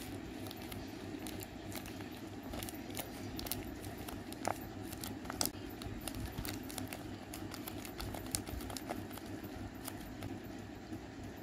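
A tape-covered paper squishy crinkling and crackling as fingers squeeze and press it, with a run of small crackles and two sharper ones about halfway through.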